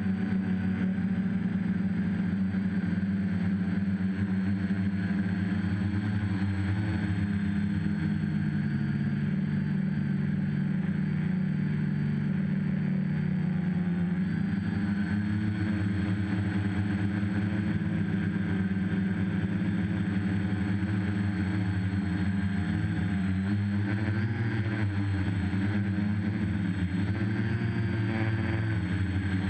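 WiteSpy RC copter's motors and propellers running in flight as a steady drone, the pitch wavering up and down a little as the throttle shifts.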